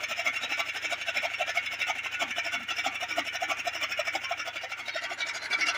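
Tractor-driven chaff cutter running: a steady, fast mechanical clatter over a low hum.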